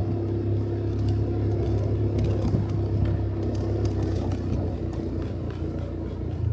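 Motorcycle engine running at a steady speed while riding, a constant low hum with light clicks and rattles over it.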